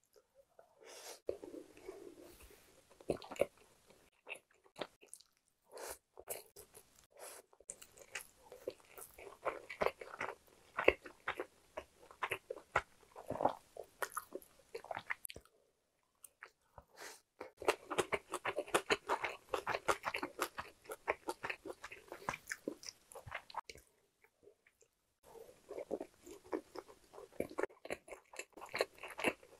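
Close-miked chewing and mouth sounds of a person eating rice and Korean side dishes, including pickled perilla leaves. It comes in runs of many quick small clicks, broken by a few short silent pauses between mouthfuls.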